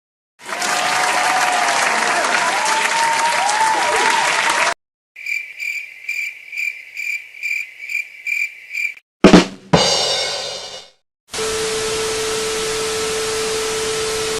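A run of separate sound effects. First comes about four seconds of applause-like noise with whistling glides. Then about four seconds of high chirps repeating two to three times a second, a single loud hit that dies away over about a second and a half, and about three seconds of steady hiss with a low hum.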